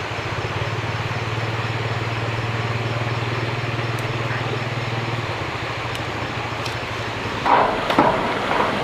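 A steady low mechanical hum over a steady hiss for about five seconds, then, near the end, a run of sharp knocks.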